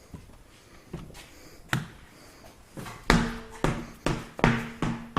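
Sharp knocks: two single ones early on, then a quick run of about two a second from about three seconds in, over a steady hum that starts with them.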